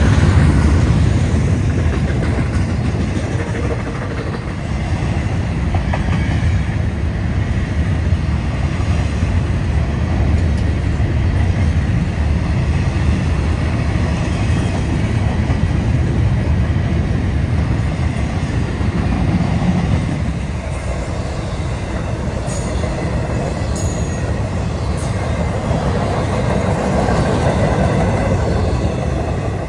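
Double-stack intermodal freight cars rolling past close by: a steady rumble of steel wheels on the rails.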